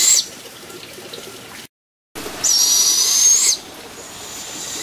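Fledgling birds of prey giving high, rasping, hissy food-begging screeches. One screech cuts off just after the start, a second lasts about a second, and a fainter thin whistle follows near the end.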